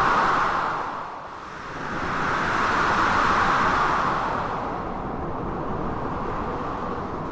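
Blizzard wind mixed with sea waves breaking: a dense rushing noise that dips about a second in, swells again over the next few seconds, then settles to a steadier level.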